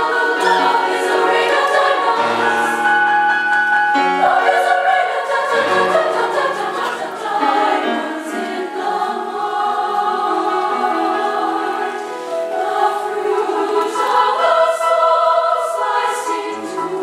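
Women's choir singing in several parts, holding and moving through chords.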